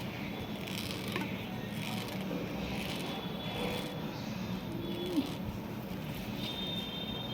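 Eyebrow threading: a twisted cotton thread rasping as it pulls out hairs, in short repeated strokes about once a second, over a steady low hum.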